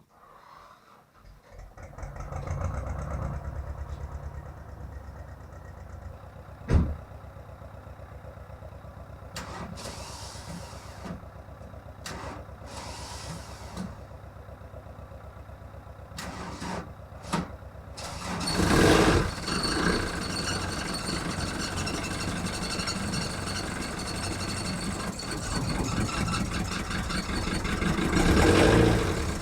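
Starter motor cranking a cold VW Golf mk1's 1.9 turbo-diesel at length, with a sharp click about seven seconds in; the starter sounds bad. Near twenty seconds in the diesel catches and runs on roughly, its first start after five months of storage.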